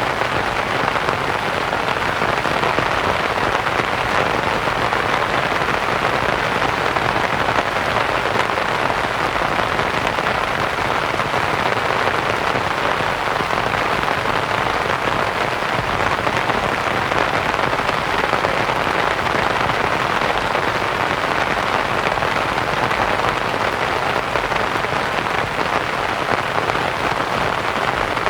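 Steady rain pattering on a canvas tent, blended with soft white noise.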